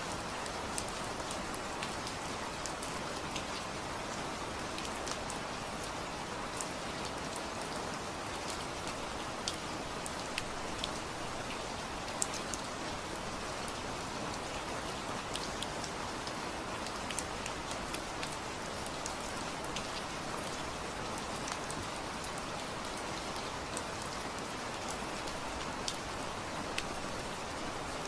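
Steady rain falling, an even hiss with scattered individual drops ticking against a surface.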